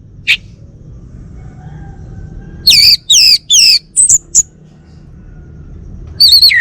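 Male orange-headed thrush singing: one short note, then a quick run of four loud falling notes around the middle, two brief notes after them, and the song starting up again near the end. A faint low hum lies underneath.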